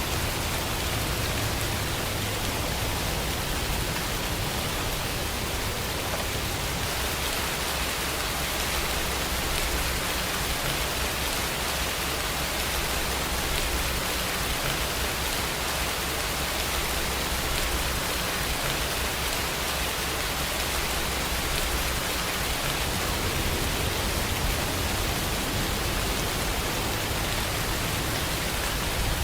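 Steady rainfall: a constant, even hiss of rain with a low rumble underneath.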